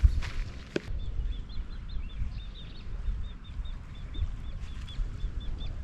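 A bird chirping over and over in short, high notes, about two or three a second, over a low wind rumble on the microphone. A single sharp click just under a second in.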